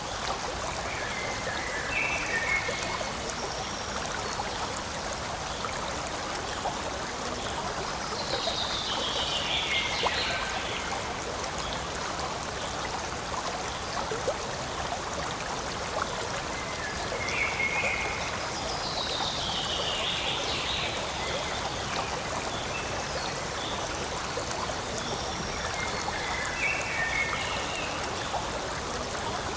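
Forest stream running steadily over rocks. Over it a bird calls now and then: short calls, and twice a descending run of notes sliding from high to lower.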